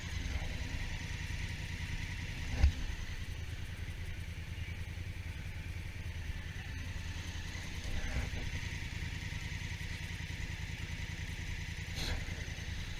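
Honda Africa Twin motorcycle engine running with a steady low drone. A single sharp knock comes a little over two seconds in, with two fainter knocks later.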